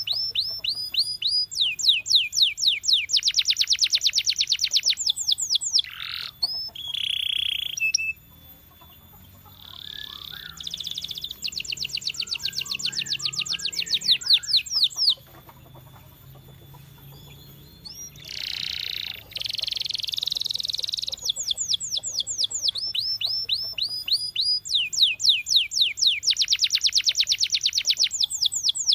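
Canary singing: long phrases of fast, evenly repeated sweeping notes, rolling trills that switch from one note type to another, broken twice by short quieter pauses.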